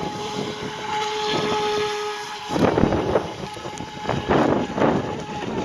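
Electric RC jet boat's 3900kv brushless motor and jet drive whining at a steady pitch, then bursts of loud rushing noise from about two and a half seconds in.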